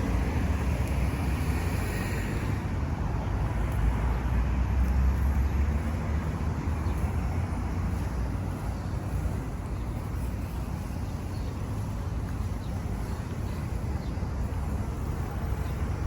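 City road traffic: a steady low rumble of passing cars, swelling about four to six seconds in and then easing.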